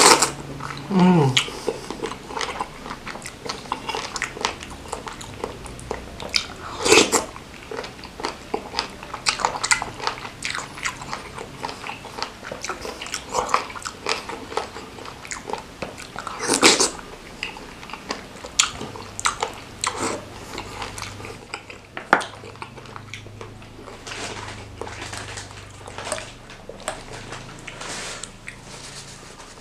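Close-up eating sounds: biting and chewing boneless chicken feet and noodles in spicy seblak broth, many small wet clicks, with two louder moments about seven and seventeen seconds in.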